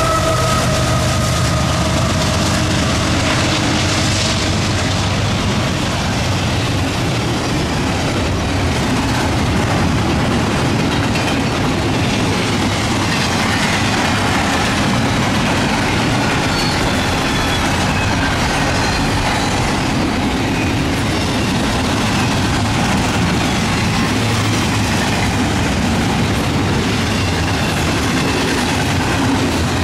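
Double-stack container freight train passing at speed, a steady din of wheels on rail and rattling well cars. In the first second or two the locomotive horn dies away, its several tones sliding lower as the engines go by.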